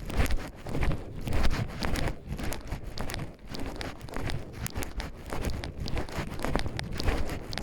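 Footsteps of a person walking up a forest trail, a continuous run of irregular steps on the ground underfoot.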